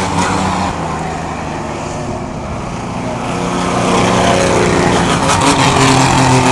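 Several race trucks' engines running at speed around a short oval, the pack fading a little and then swelling louder again as it comes back past.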